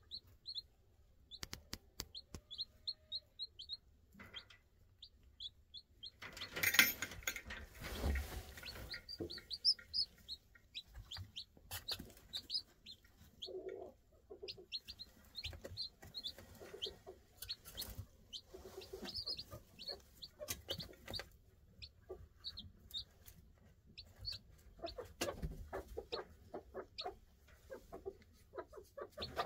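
Newly hatched chicks peeping in quick runs of short, high calls, with a few lower clucking calls mixed in. A rustle comes about seven seconds in.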